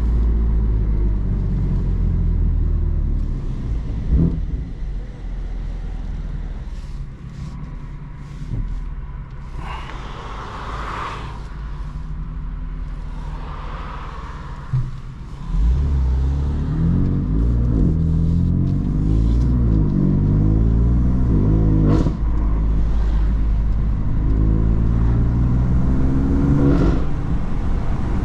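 BMW M3 F80's twin-turbo inline-six, breathing through an M Performance exhaust. It runs loud, with a short crack about four seconds in, then drops back to a quieter cruise. About halfway through it opens up hard and climbs in pitch through several gears, with a sharp crack at one shift about three-quarters of the way in.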